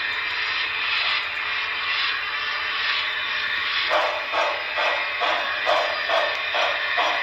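Sound decoder of a Broadway Limited Imports Paragon4 HO-scale steam locomotive playing standing steam sounds through its onboard speaker: a steady hiss, joined about four seconds in by a regular pulsing about twice a second.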